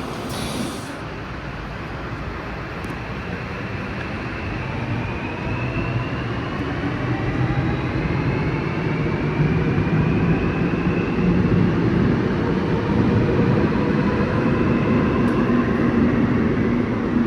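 Seoul Subway Line 5 electric train accelerating past the platform. Its motors give a whine that slowly rises in pitch while the rumble of the cars grows louder.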